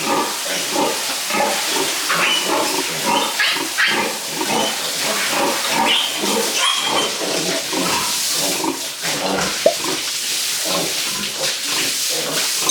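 Pigs grunting continuously: many short grunts overlapping, with a few brief higher squeals.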